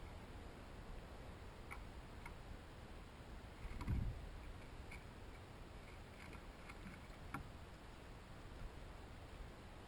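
Faint outdoor ambience at a bird feeder: a scattering of short clicks and chip-like ticks, with one low thump about four seconds in.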